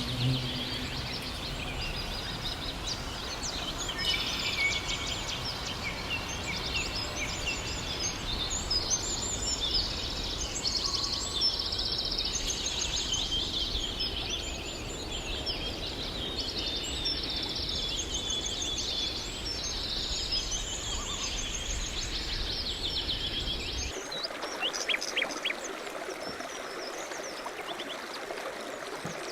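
Many songbirds singing at once in a dense, overlapping dawn-chorus-like mix of trills and chirps over a low steady rumble. About 24 seconds in, the rumble cuts off abruptly and only a few scattered chirps remain over a soft hiss.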